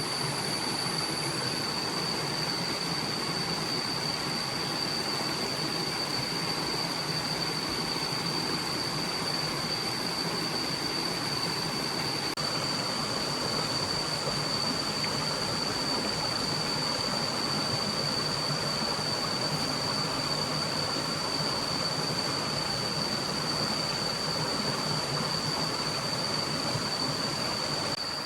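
Steady rushing of a forest stream, with a continuous high-pitched whine held on one note over it.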